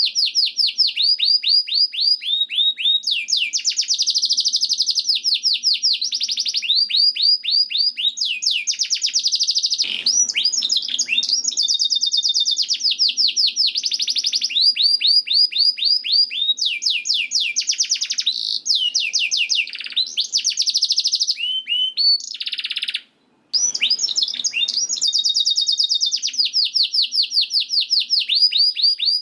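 Canary singing a continuous song of fast rolled trills, one rapid run of repeated notes switching straight into the next, with a brief break of about half a second a little past two-thirds through.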